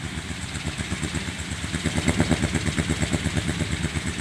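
Bamboo kiling windmill spinning in a strong wind, its clappers knocking in a fast, even rhythm of several low beats a second that grows a little louder about two seconds in.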